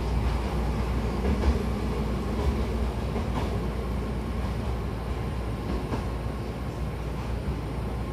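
Hankyu 1000-series electric commuter train's running noise heard from inside the car: a steady low rumble with a few faint clicks, getting gradually quieter as the train rolls along a station platform.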